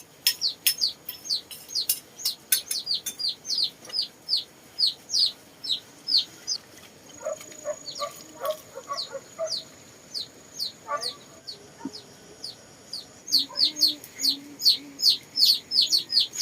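Chicks peeping: short, high, falling chirps repeated three or four times a second, with a few softer, lower clucks in the middle.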